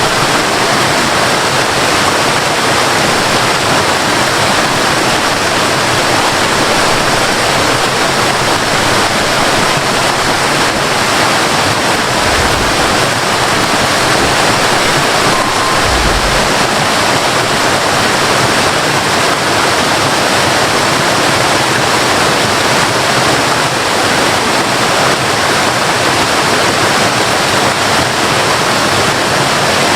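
Waterfall: a steady, loud rush of falling, splashing water, with a couple of brief low rumbles about halfway through.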